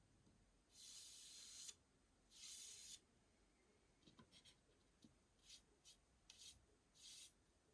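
Paintbrush strokes brushing across a wooden baseboard, faint and scratchy: two longer strokes in the first three seconds, then several short quick dabs.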